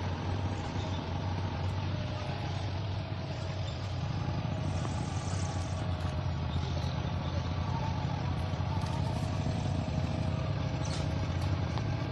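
A vehicle engine running steadily: an even low hum with faint steady tones above it.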